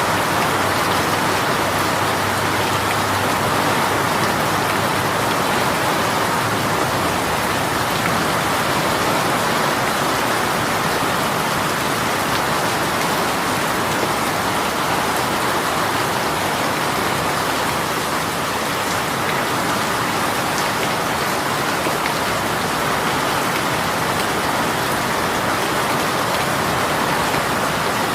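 Heavy rain shower falling steadily on surfaces, a dense even patter that neither builds nor eases.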